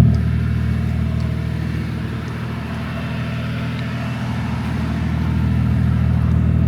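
Toyota MK3 Supra's engine running steadily, its sound dropping right at the start and then climbing gradually through the second half.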